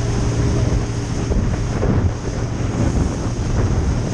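A small boat's motor running steadily under way, with wind buffeting the microphone and water rushing past the hull.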